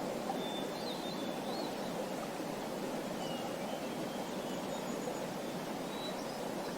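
Small birds chirping now and then, in short, thin, high calls, over a steady rushing noise that is the loudest sound throughout.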